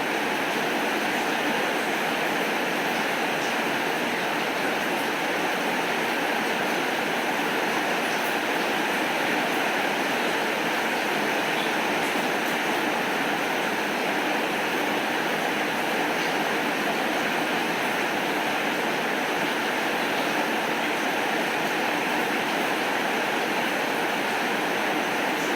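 Heavy rain falling steadily, an even hiss that does not rise or fall.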